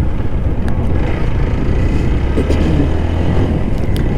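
Motorcycle riding at steady speed: the engine running evenly under a rush of wind and road noise.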